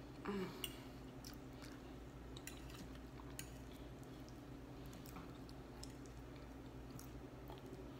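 Faint, close-up chewing of a mouthful of cheesy chicken pot pie, with scattered light clicks of a metal fork against a plate. A brief low hum comes just after the start.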